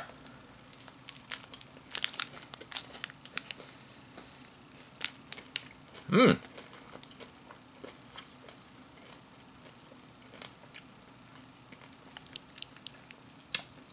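Crunching and chewing of a fruit-and-nut bar with almonds and raisins, with sharp crackles of its plastic wrapper being handled. A short hum of the voice comes about six seconds in.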